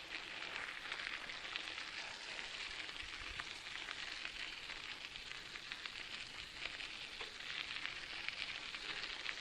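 Bicycle tyres rolling over a dirt trail: a steady crackling hiss with many fine ticks.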